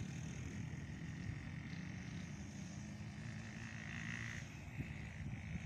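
A small dirt bike engine running fairly steadily, with a buzzy low note that wavers slightly.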